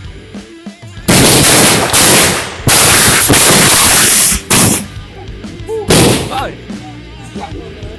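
Bamboo cannons firing: very loud booms that overload the microphone, two long rolling blasts from about a second in to about four seconds, then two short blasts near four and a half and six seconds in.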